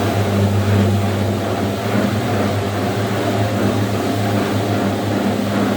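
Carpet-cleaning machine running steadily on office carpet, a loud, even low hum.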